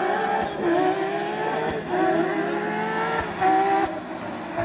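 A Porsche competition car's engine accelerates hard through the gears. Its pitch climbs and drops sharply at each of several quick upshifts, then the engine eases off near the end.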